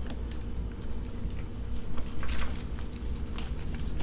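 A steady low hum with a few soft clicks and scrapes of handling, about two seconds in and again near the end.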